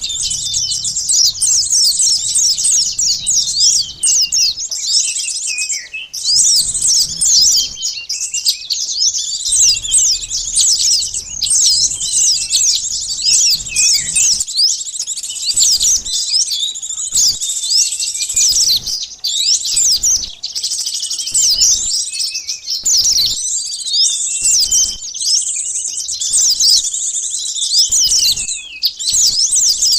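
Sunbirds calling in a dense, unbroken chorus of rapid, high-pitched chirps and twitters, many calls overlapping: a bird-lure recording used to draw small birds in.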